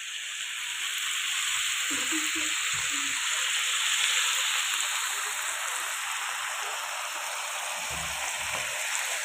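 Boiled buffalo tripe sizzling steadily in hot oil in a wok over a high gas flame, still wet with the water it gives off; the sizzle grows a little louder over the first second or two.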